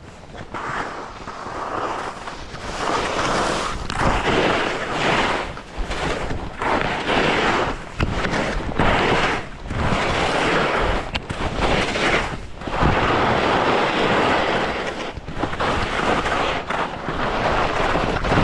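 Wind rushing over the microphone and skis scraping across the snow while skiing downhill, surging and dropping in waves about every second or two as the skier turns.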